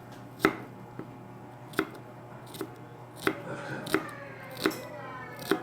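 Knife cutting onions on a cutting board: separate single cuts, about eight of them at a slow, uneven pace, roughly one every 0.7 seconds.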